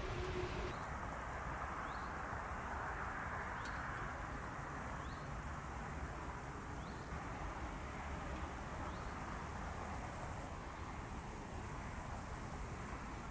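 Steady low rumble and hiss of outdoor background noise, with a faint short chirp about every second and a half.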